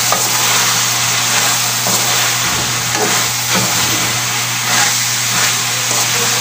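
Chicken liver, gizzards and cauliflower sizzling in a hot wok, with a steady frying hiss. A metal spatula scrapes and turns the food in the pan every so often.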